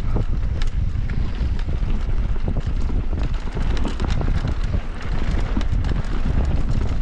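Wind buffeting the microphone while riding a mountain bike downhill, with a steady low rumble and frequent rattling clicks and knocks from the bike over rough trail.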